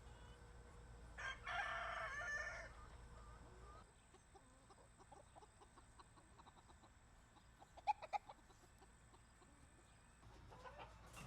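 A rooster crows once, a little over a second in, the call lasting about a second and a half. Hens cluck softly after it, with a quick run of sharp clicks later on and the chickens calling louder again near the end.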